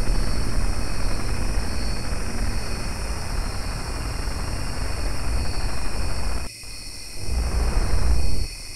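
Loud, steady rumbling noise with a hiss and a thin high hum over it, like the static of a degraded video tape. It cuts out briefly twice near the end.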